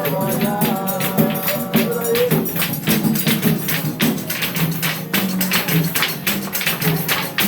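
Samba de roda chula music: a voice sings a line that ends about two seconds in, over a fast, dense pandeiro rhythm that keeps going.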